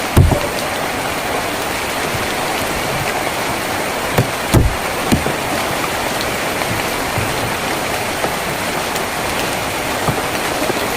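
Steady rain drumming on a tin roof. A few heavier drops thud louder, the loudest just after the start and a small cluster about four to five seconds in.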